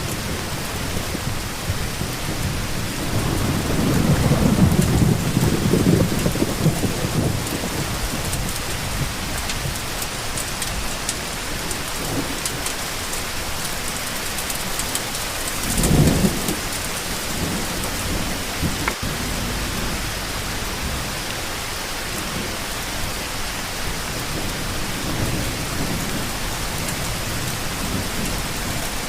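Steady rain falling, with low rolling rumbles of thunder: a long one a few seconds in and a shorter one about halfway through.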